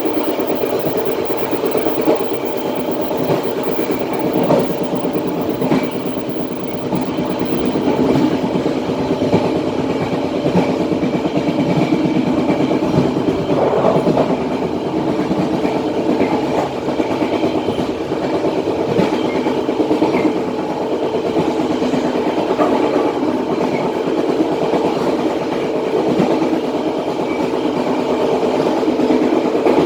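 Matarmaja passenger train running along the line, heard from the rear of the last coach: a steady rumble of wheels on rails with a continuous clatter of wheel clicks over the track.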